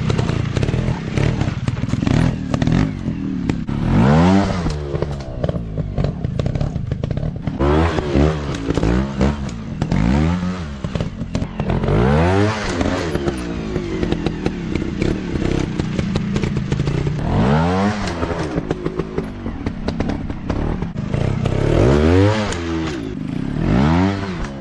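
Dirt bike engines revving up and dropping back again and again, every few seconds, with clattering and scraping between the revs.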